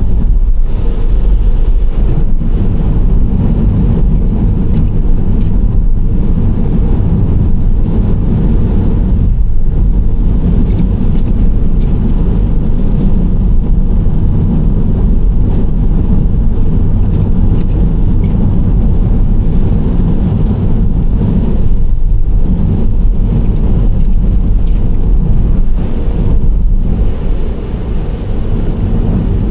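Nissan Serena C25 minivan driving at a steady speed: a loud, steady low rumble of road, tyre and engine noise that eases briefly near the end.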